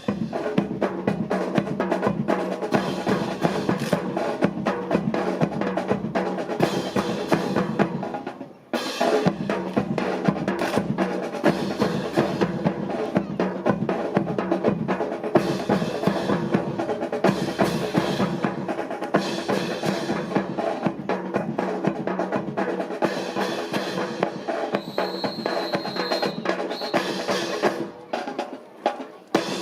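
Marching snare and bass drums playing a continuous drill cadence, with a brief break about nine seconds in. A short high steady tone sounds near the end.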